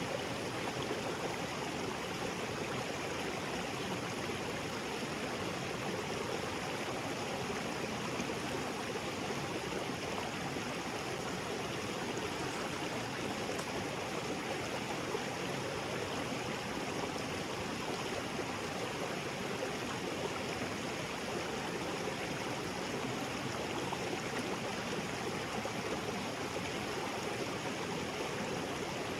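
Small waterfall spilling into a rocky creek: a steady, even rush of water with no breaks or changes.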